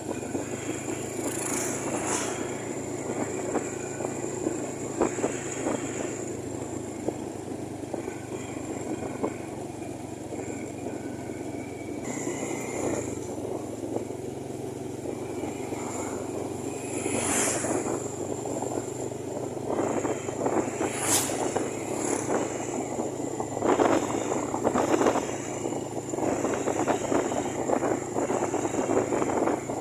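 Steady motor-vehicle engine and road noise, with brief louder swells a few times as vehicles pass close by.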